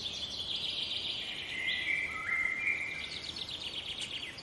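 Birdsong: rapid high trills with steady whistled notes that step down in pitch partway through.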